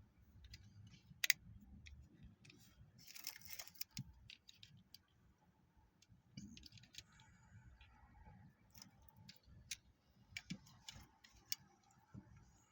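Hard plastic action-figure parts being handled and fitted together: scattered light clicks and taps, one sharp snap about a second in, and a short rustle around three seconds in.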